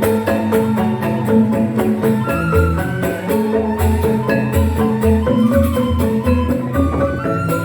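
Balinese joged bumbung gamelan playing: bamboo xylophones struck in fast, dense patterns over repeated low bass notes, with a high held note coming in near the end.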